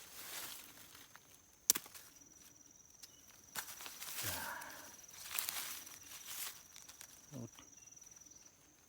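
Footsteps and rustling in undergrowth, with one sharp snap about two seconds in and a steady thin high tone underneath. Two short low voice sounds come about midway and near the end.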